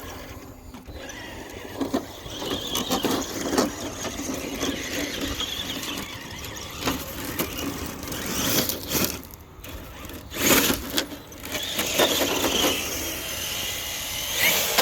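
Traxxas TRX-4 Sport RC truck's brushless motor and drivetrain whining in spurts as the truck is driven over rough ground, with several sharp knocks along the way.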